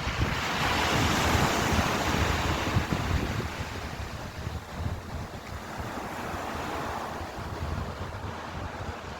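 Ocean waves breaking and washing in: one wave swells loudest in the first few seconds, with a weaker surge about two-thirds of the way through. An irregular low wind rumble on the microphone runs underneath.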